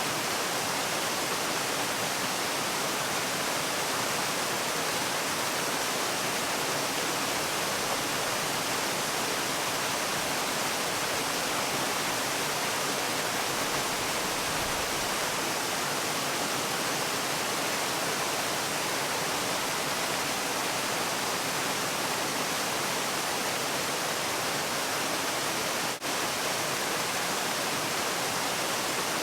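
Steady rushing of falling water, an even hiss spread across high and low pitches, with a momentary dip in level near the end.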